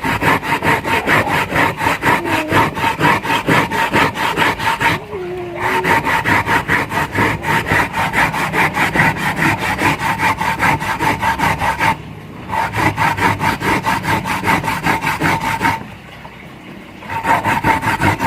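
Fast, even scraping or rubbing strokes from a kitchen utensil working food, about five a second, in runs broken by short pauses about 5, 12 and 16 seconds in.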